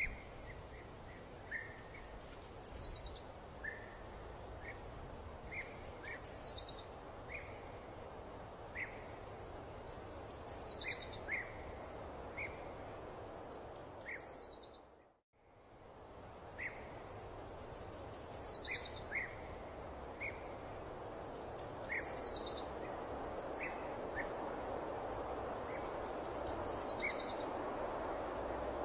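Nature ambience recording: a songbird repeating a short phrase of high notes that fall in pitch, about every two to four seconds, with scattered short chirps, over a steady background hiss. The sound cuts out for a moment about halfway through, then picks up again.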